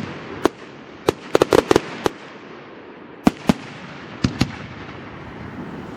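Fireworks display: a sharp bang, then a quick volley of cracks between about one and two seconds in, then a few single bangs spaced out, over a steady background hiss.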